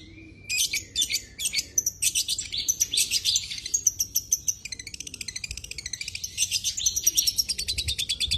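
Long-tailed shrike (cendet) singing a fast, varied song of rapid high chirps. About halfway through it runs into a quick, even trill of repeated notes. This is a bird in full song, filled with mimicked phrases.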